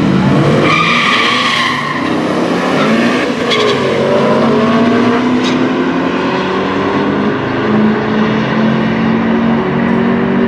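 Race car launching down a drag strip: a brief tire squeal about a second in, then the engine pulling hard, its pitch sweeping up and then climbing steadily as it accelerates.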